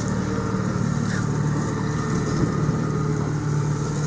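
Fishing boat's motor running steadily at trolling speed, a low, even drone with a faint whine over it.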